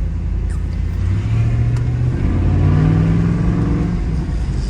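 Ford F-150 pickup's engine accelerating under way, its pitch climbing through the middle and easing off near the end, over a steady low road rumble.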